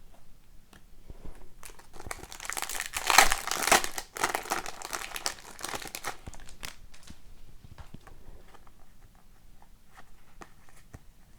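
Crinkling and tearing of a foil trading-card pack wrapper, loudest about two to four seconds in. Light ticks of cards being handled follow.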